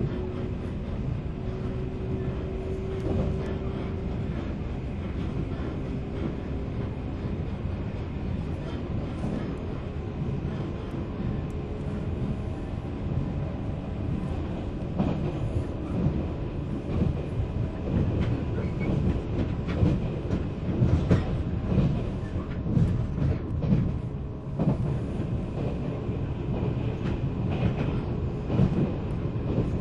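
Running noise heard from inside a 485-series electric motor car (MoHa 485) as the train travels. The wheels clack over rail joints, and the knocks grow more frequent and louder in the second half. A faint steady whine from the running gear fades away after the first few seconds.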